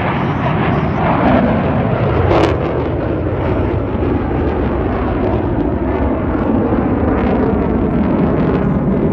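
A J-10C fighter jet's engine passing by as a loud rush of jet noise. Its pitch falls about one to two seconds in, then it settles into a steady rumble.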